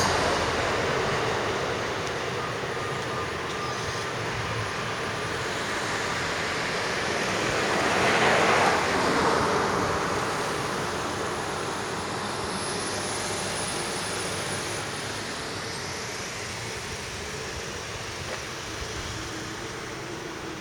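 A Kintetsu train passing, its sound fading over the first couple of seconds. Then a steady rushing noise, with another vehicle swelling past and fading about eight seconds in.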